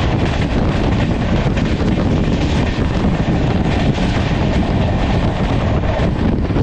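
Passenger coach of an express train running at speed: a steady rumble of wheels on the rails, mixed with strong wind buffeting the microphone held out of the coach window.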